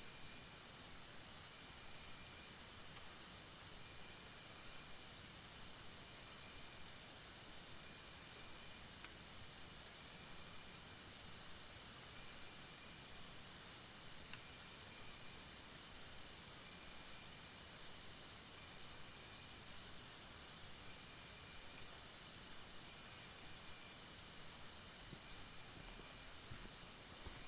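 Faint night chorus of crickets and other insects: a steady high pulsing trill, with a lower chirp repeating about every second and a half and scattered high ticks. A brief rapid high call twice.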